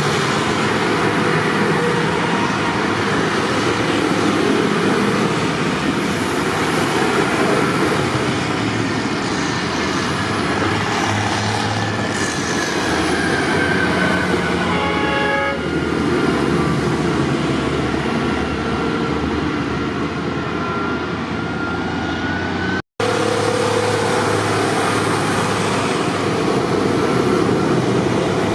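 Tractor engines running steadily, with a short horn toot about halfway through.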